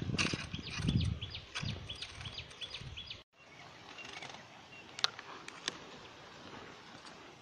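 A bird calling a quick, even series of short high chirps, about four a second, for the first few seconds, over a low rumble of wind or handling. After a brief cut there is faint outdoor background with a couple of sharp clicks.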